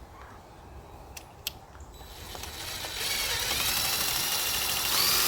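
Drill starting up about two seconds in and running with a steady whine as it drives a self-threading screw and washer into PVC pipe. A couple of small clicks come before it.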